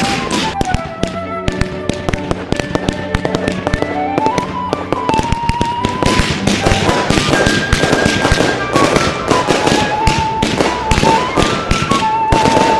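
Fireworks going off in quick, irregular bangs and crackles that grow much denser about halfway through, over background music with a stepping melody.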